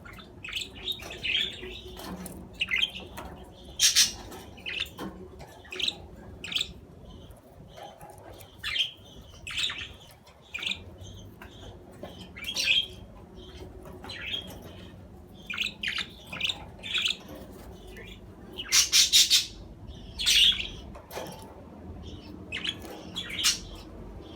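Budgerigars chattering: an irregular run of short chirps and harsh squawks, with a loud call about four seconds in and a quick string of loud calls about two-thirds of the way through.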